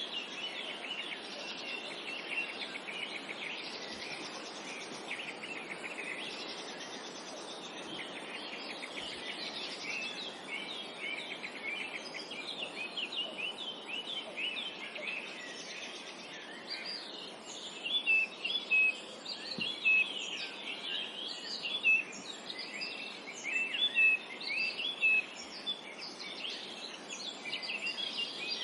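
A chorus of songbirds chirping and trilling over a steady background hiss. From about two-thirds of the way in, louder sharp chirps from a nearer bird stand out, repeated several times.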